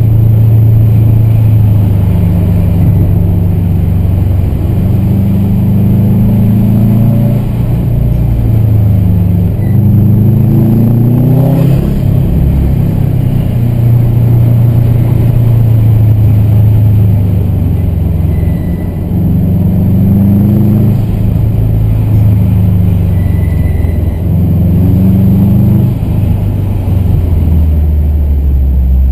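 Car engine heard from inside the cabin, a low steady note whose pitch rises under acceleration and drops back several times.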